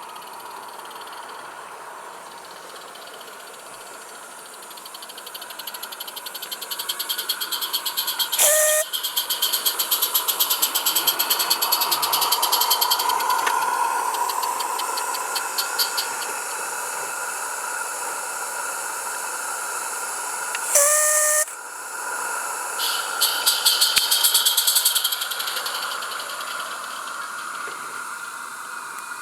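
A train pulling into a station: its running noise builds from about five seconds in, with a rapid rhythmic clatter. The train horn gives two short blasts, one about eight seconds in and one about twenty-one seconds in.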